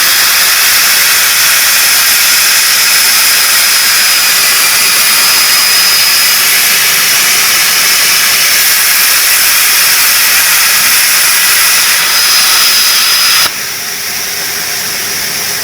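CNC plasma cutter arc cutting steel: a loud, steady hiss with a thin high whine, which drops suddenly about thirteen seconds in to a quieter hiss.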